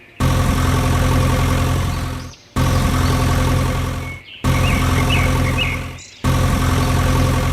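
A motor running with a steady low hum, heard in four short stretches of about two seconds each, each cut off abruptly.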